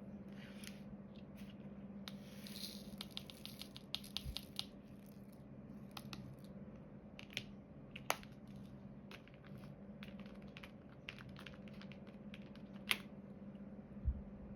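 Diamond painting handwork: a scatter of small plastic clicks and rattles from resin drills and the drill pen, with a busy run of rattling early on and a few sharper single clicks later. A steady low hum runs underneath.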